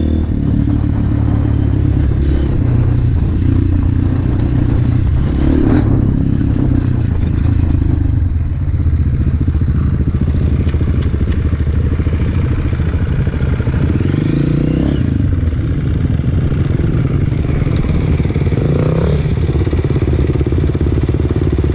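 Enduro motorcycle engine running under load while riding, its pitch rising and falling a few times as the throttle changes.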